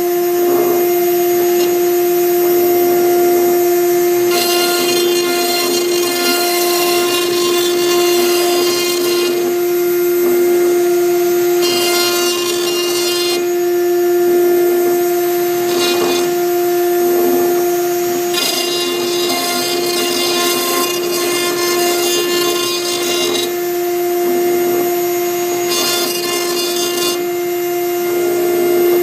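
CNC router spindle whining at one steady pitch while its V-bit cuts into MDF, with the stepper motors' higher tones changing every few seconds as the axes move.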